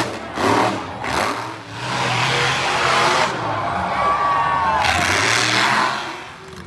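Monster truck engine revving hard: a few short blips, then a long, full-throttle run whose pitch falls away near the end.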